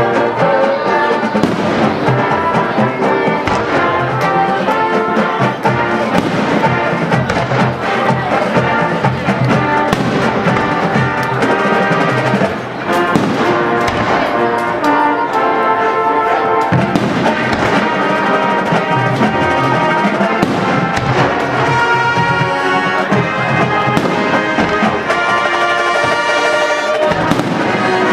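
Brass music with trumpets and trombones playing full, held chords, with scattered sharp bangs through it.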